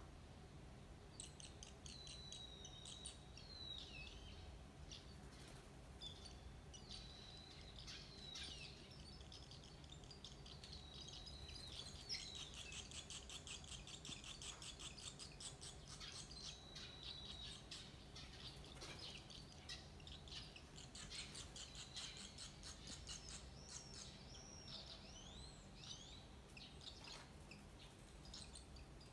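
Barn swallow nestlings calling faintly with dry, high chirps: rapid runs of ticking notes that swell about a third of the way in and again later, mixed with a few short whistled glides.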